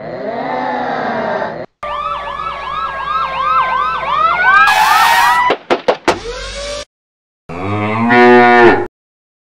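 Sound effects: a short drawn-out voice, then a siren wailing up and down in quick cycles for about three and a half seconds, ending in a burst of hiss and a few clicks, then a cow mooing once near the end.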